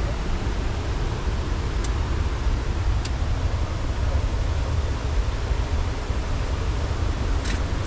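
Steady rushing noise of a fast mountain river, with a low, uneven rumble underneath.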